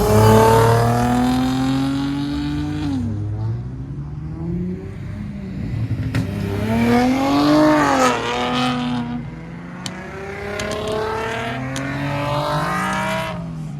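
Car engines revving, the pitch climbing for a second or two and dropping back several times.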